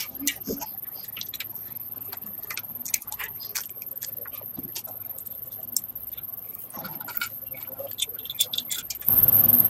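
Scattered light clicks and taps from hand tools and metal parts being handled at a workbench, then a short loud hiss near the end.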